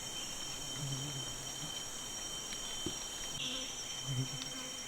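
Forest insects droning steadily in a high pitch, with a single faint tap about three seconds in.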